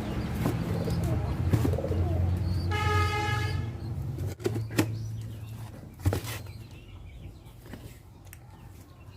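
Pigeons or doves cooing, with a few sharp clicks, the sound fading out over the last few seconds.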